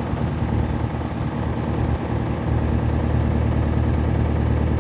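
A 1975 Chevrolet tandem-axle grain truck's engine idling steadily with a deep, even rumble.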